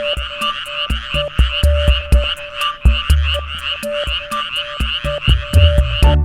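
A dense chorus of frogs croaking, layered with background music that has a steady ticking beat and bass thumps. The frog chorus cuts off suddenly near the end, leaving the music.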